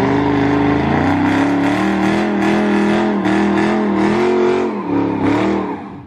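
Car engine revved up hard and held at high revs for about five seconds, wavering a little, then dropping back near the end.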